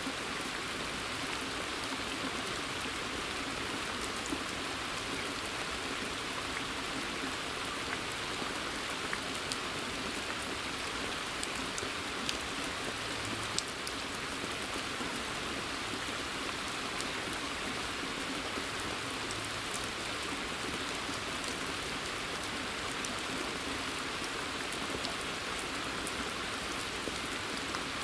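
Steady rain falling in a forest, an even hiss with scattered individual drops ticking over it, one a little sharper about halfway through.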